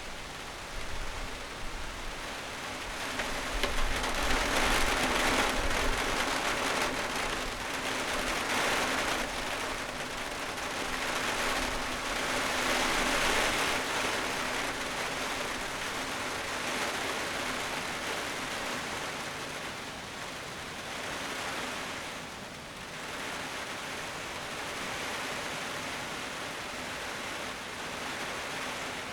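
Wind gusting through trees, leaves rustling in a steady hiss that swells twice, then eases off.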